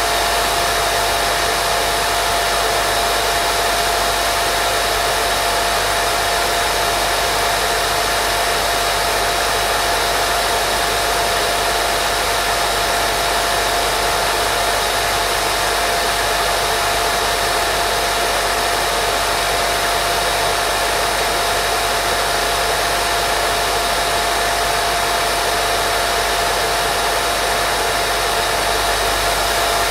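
Steady white noise played as a baby sleep sound: an even, unbroken hiss with a constant mid-pitched tone running through it.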